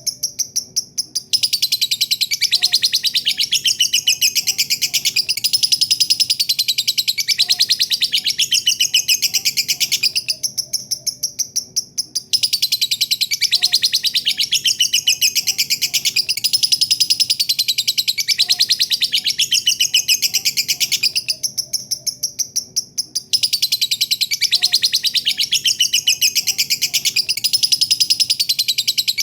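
Lovebird singing its long 'ngekek': a fast, continuous, high-pitched chattering trill in long bouts, broken by three pauses of about two seconds.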